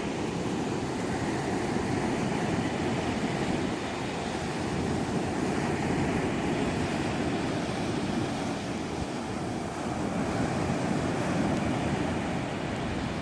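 Steady rushing of sea surf and wind, with no break or single event standing out.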